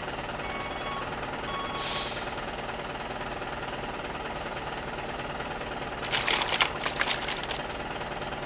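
Small electric motor and gears of a toy RC truck running with a steady whir. Short repeated beeps sound near the start, a brief hiss about two seconds in, and a quick clatter of knocks about six seconds in.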